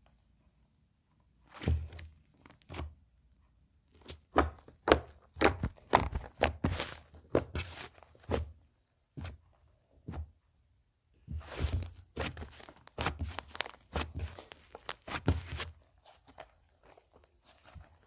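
Slime being squeezed, stretched and pressed by hand, making irregular sticky clicks, pops and crackles in three clusters separated by quiet pauses.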